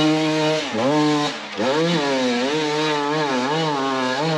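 Dirt bike engine revving hard under load, with the revs dropping and rising again several times as the throttle is chopped and reopened.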